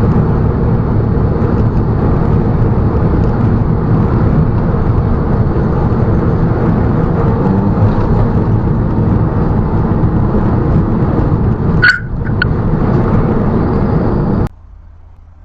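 Loud, steady road and engine noise of a car driving. About twelve seconds in there is a short sharp sound, then the noise cuts off suddenly near the end.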